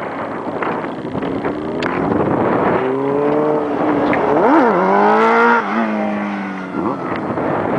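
Sport bike engine accelerating: its pitch climbs, jumps up and down sharply in a quick throttle blip about halfway, then holds lower and fades away as the bike moves off.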